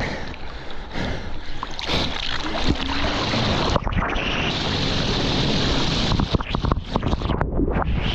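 Jet ski running on the water, with a steady rush of water and wind buffeting the microphone, growing a little louder over the first few seconds.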